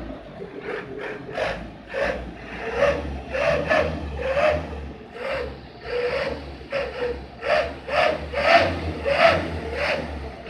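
Non-turbo truck engine running through a wolf-sound ('knalpot serigala') exhaust, which gives out a string of short, animal-like yelps, about two a second and unevenly spaced, over a low engine rumble.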